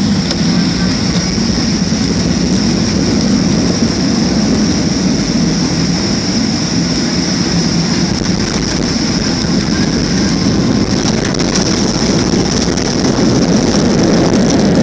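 Steady cabin noise of a Boeing 737-300 jet airliner heard from inside the passenger cabin: the engines and rushing air give a loud, even rumble with a thin high whine over it.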